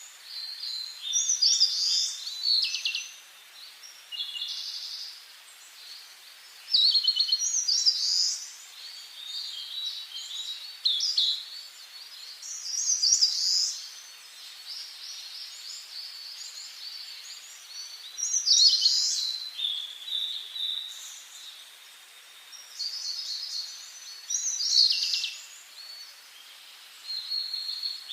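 Songbirds singing: short, bright, high-pitched song phrases, each a second or two long, repeated every few seconds over a faint steady hiss of forest ambience.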